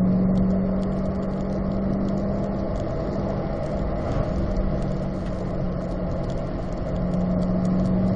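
Corvette's V8 engine running at steady revs under a haze of road noise. Its pitch sags slightly about seven seconds in, then climbs again near the end.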